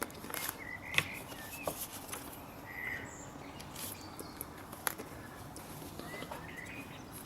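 Birds chirping in short calls, with a few sharp clicks and taps from the boost pressure sensor being twisted and worked out of its port; the loudest click comes about a second in and another near five seconds.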